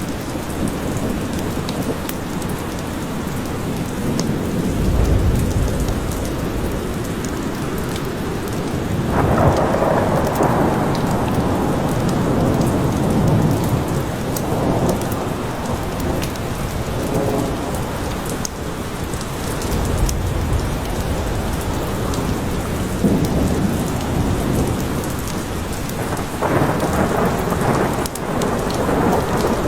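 Steady heavy rain falling on a forest, with low thunder rumbling through it, deepest about five seconds in and again about twenty seconds in.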